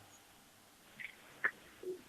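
Pause on a telephone line: near silence broken by three faint, brief sounds, one of them a short click about a second and a half in.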